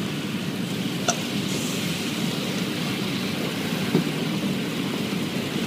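Automatic car wash working over the car, heard from inside the cabin: a steady rushing wash of water and cloth brushes on the body, with a couple of brief knocks.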